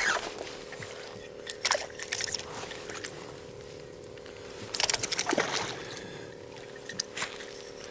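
Water splashing and sloshing against a kayak in three short bursts, over a faint steady hum.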